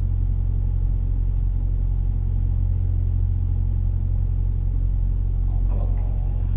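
Steady low engine rumble heard inside a vehicle's cab, unchanging throughout.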